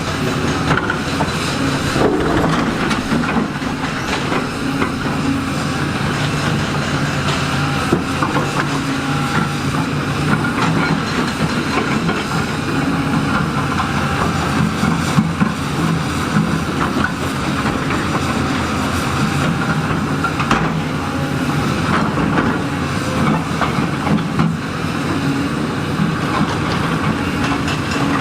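Heavy diesel earthmoving machine running steadily under load, with frequent irregular clanks and knocks.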